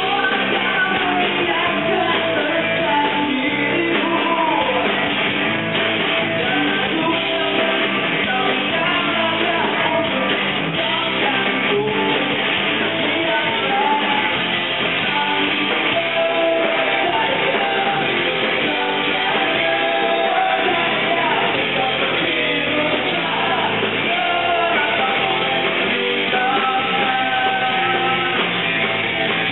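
Rock band playing live, with a singer's voice over strummed guitars and drums.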